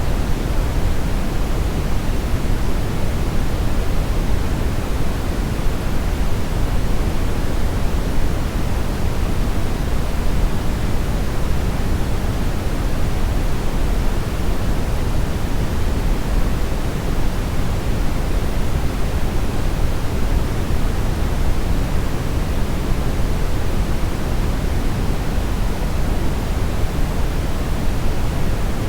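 Steady, loud synthetic brownish noise: an even, unchanging hiss weighted toward the bass, with no other sound over it.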